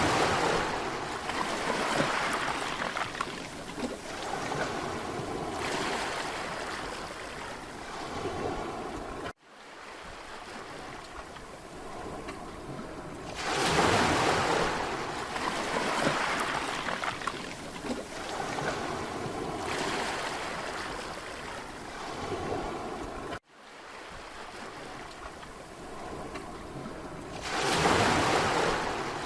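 Mediterranean sea waves breaking on a beach and washing back, a loud surge three times about fourteen seconds apart, each fading away. The sound drops out abruptly twice for a moment.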